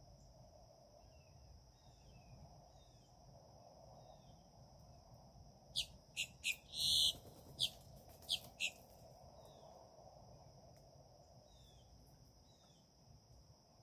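Birds calling: faint short downward-slurred notes repeat, and about six seconds in comes a quick series of loud, sharp high calls, one of them longer. A steady high-pitched whine runs underneath.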